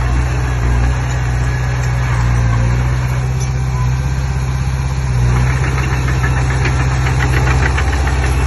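Komatsu D20P bulldozer's diesel engine running steadily under work, with a rapid ticking that sets in about two-thirds of the way through.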